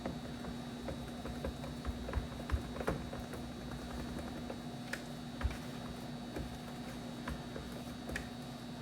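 Faint, irregular small clicks and light handling noise of the plastic gauge cluster being wiped with a microfiber towel, over a steady low hum.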